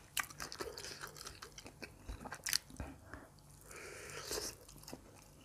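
Close-miked chewing of soft grilled pork, with small wet mouth clicks, and a louder bite pulling meat off a skewer about four seconds in.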